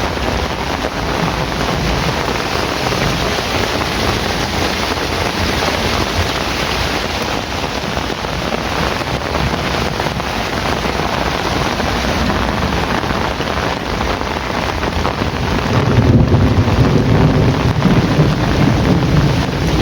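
Heavy rain falling steadily. About three-quarters of the way through, a low rumble of thunder swells in beneath it and carries on.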